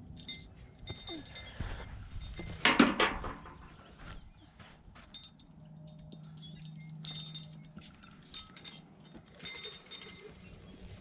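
Small metal bell jingling in short, irregular bursts, typical of a bite bell on a fishing rod shaken as a fish tugs at the bait. One louder, brief knock or rustle about three seconds in.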